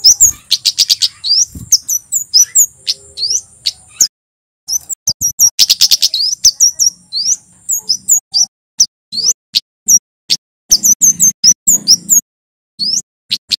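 Male flowerpecker (kemade) singing: a rapid string of sharp, very high, downslurred chips, broken by two fast rattling trills, with a brief pause about four seconds in.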